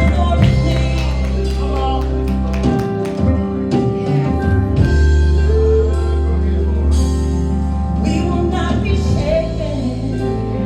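Gospel worship music from a church band, with held bass and keyboard-like chords, percussion hits and singing.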